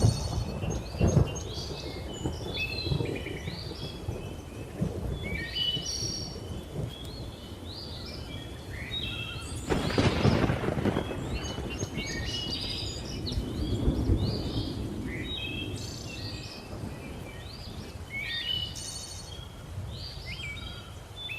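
Many birds chirping and whistling over rumbling thunder, with a loud thunderclap about ten seconds in.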